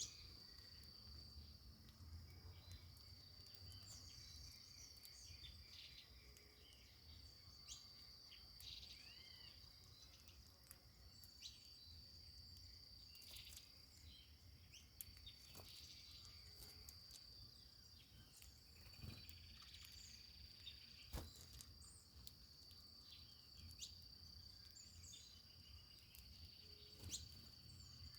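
Faint outdoor ambience: a steady, high-pitched insect drone runs throughout, with scattered short bird chirps and a few sharp clicks over it.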